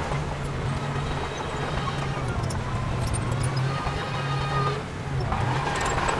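Heavy diesel earthmoving engine running steadily under load, its low drone easing briefly about five seconds in before picking up again.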